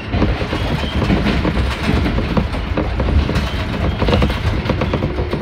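Electric commuter train running along the track, heard from inside the car: a steady rumble of wheels on rail with irregular clacks.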